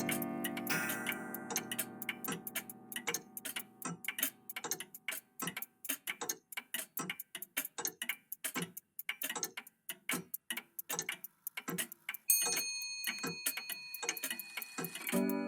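Old clocks ticking steadily, a few ticks a second, while a chime's ringing fades out over the first few seconds. A high ringing tone joins the ticking about twelve seconds in.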